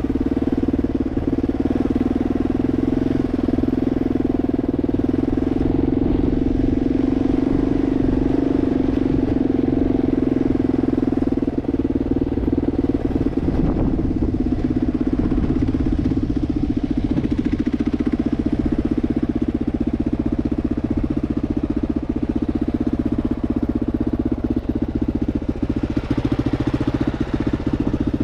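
Kawasaki KLR 650's single-cylinder four-stroke engine running steadily under way, its revs holding fairly even throughout.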